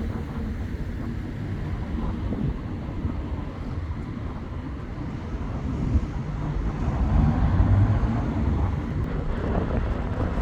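Street traffic: a vehicle's engine rumble with wind buffeting the microphone, getting louder about seven seconds in as a vehicle draws closer.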